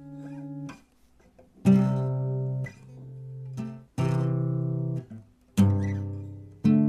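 Music: guitar chords struck and left to ring, a new chord every second or two.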